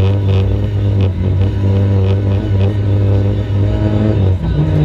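Racing car's engine running steadily at high revs, its pitch changing about four and a half seconds in.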